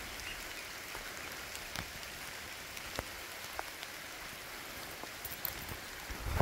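Steady rain falling, an even hiss with a few scattered louder drops ticking.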